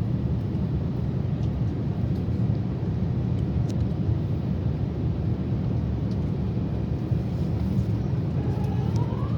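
Steady low rumble of aircraft noise inside an Airbus A350-900's cabin, engines and airflow droning without a break. A thin tone rises near the end and then holds.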